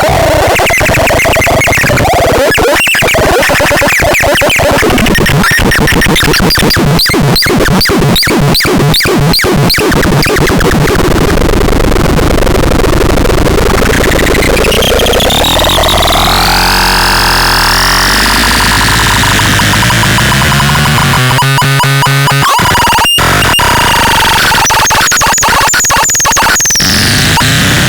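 Harsh, loud electronic noise-synth sounds from the DOBLEX: fast stuttering pulses over the first several seconds, then long sweeping pitch glides that rise and fall, with choppy stuttering again near the end.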